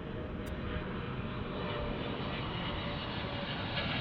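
Twin-engine Boeing 777 jet airliner on landing approach, its engines making a steady rushing roar with a faint steady whine through it.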